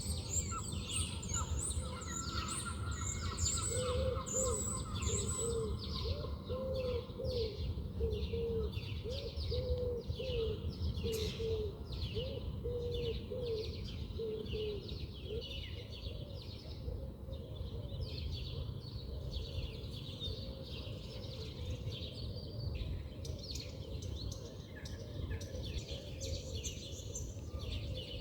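Several birds chirping and singing at once in many short, high notes. From about four seconds in to about fifteen, a run of low, short hooting notes repeats quickly, over a steady low rumble.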